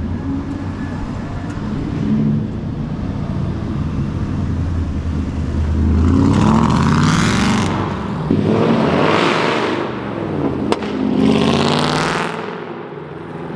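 Cars with loud exhausts accelerating hard past, in three surges that rise and fade from about six seconds in, over a steady engine drone.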